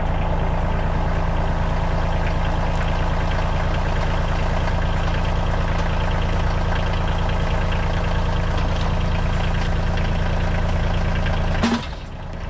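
Carlton SP 7015 stump grinder's diesel engine running steadily under power. Near the end the sound breaks off briefly and comes back lower.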